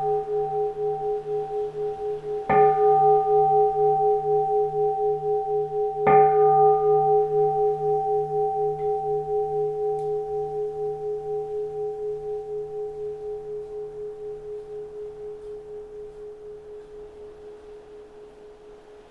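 Keisu, a Japanese Zen bowl-shaped bell, struck twice, about two and a half and six seconds in, while still ringing from a strike just before. Each strike sets off a long, pulsing ring of a few steady tones that fades slowly away.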